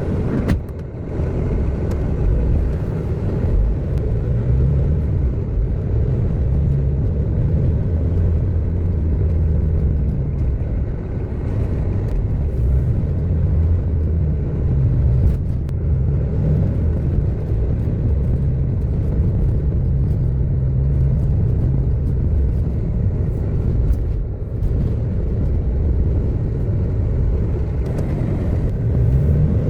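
A car driving: a steady low rumble of engine and road noise, unchanging throughout.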